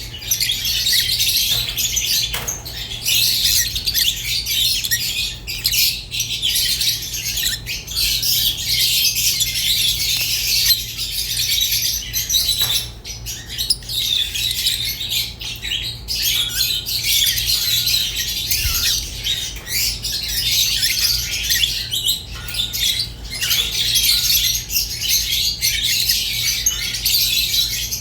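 Rosy-faced and Fischer's lovebirds chattering continuously, a dense stream of shrill chirps and squawks with only brief pauses.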